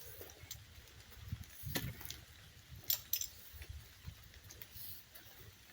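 Faint walking sounds: soft footsteps with scattered sharp clicks and handling noise, a few clicks standing out about two to three seconds in.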